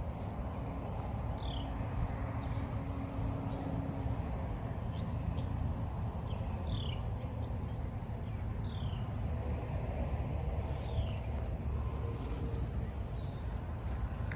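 A bird calling a short, high, falling note over and over, roughly every one to two seconds, over a steady low outdoor rumble.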